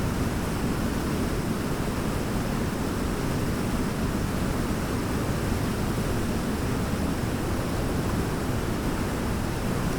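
Large waterfall: a steady, heavy rush of falling water with most of its weight in the low end and no distinct events.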